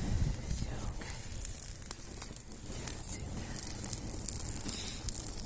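Bonfire burning, crackling and hissing with scattered sharp pops.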